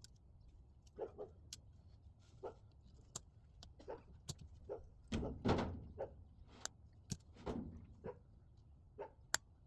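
Scattered light clicks and knocks of hand tools and metal parts being handled, about a dozen in all, irregularly spaced. The loudest cluster comes about five seconds in.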